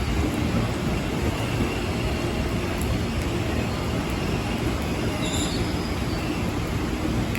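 JR 205 electric commuter train running through the station: a steady rumble of wheels on rails, with a faint high wheel squeal in the first half.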